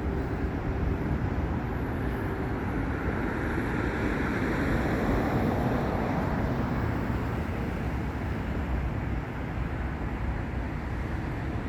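Steady freeway traffic noise that swells for a few seconds in the middle as vehicles pass.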